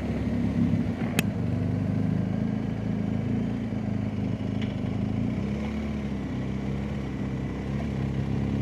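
BMW R1250GS Adventure's boxer-twin engine running steadily under way, heard from on the bike, with a short sharp click about a second in.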